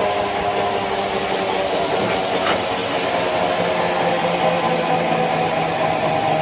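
Sawmill machinery running steadily: a motor's hum with a few held tones under a constant hiss.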